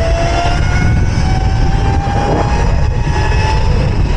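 Electric mini bike's motor whining while riding, its pitch creeping upward as the bike picks up speed, dropping out briefly about half a second in and again near the end as the throttle eases. Heavy wind rumble on the microphone underneath.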